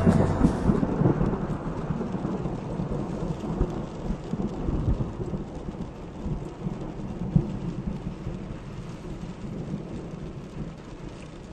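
Thunder rumbling and dying away over steady rain, the rumble fading gradually until mainly the rain is left.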